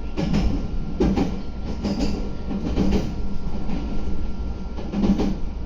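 Meitetsu 3150 series electric train running, heard from on board: a steady low rumble with irregular clacks of the wheels over rail joints.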